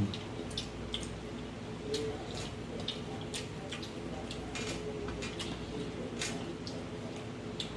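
Eating sounds: scattered small wet clicks and smacks of chewing, over a steady low hum.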